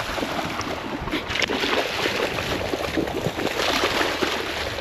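Water splashing and sloshing irregularly as a dog swims and paddles after a thrown object.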